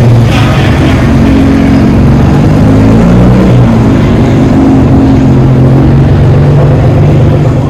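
A car engine and exhaust running loud: a steady, low drone with small shifts in pitch.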